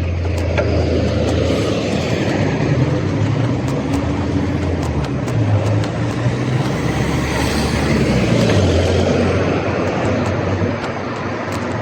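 Street traffic: a motor vehicle's engine runs close by with a low hum that shifts in pitch, over steady road and tyre noise, with scattered sharp clicks and rattles.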